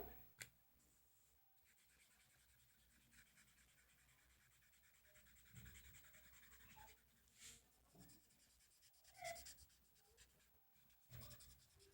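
Faint scratching of a yellow Faber-Castell felt-tip pen colouring on paper in short, scattered strokes, with a light click just after the start.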